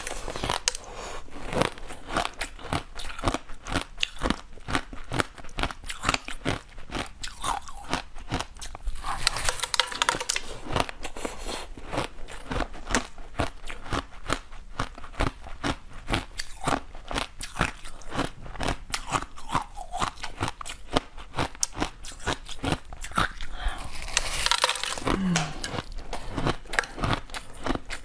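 Crunching, biting and chewing of a frozen, seed-studded yellow fruit: a dense run of sharp crackly crunches, with louder bites about nine seconds in and again near the end.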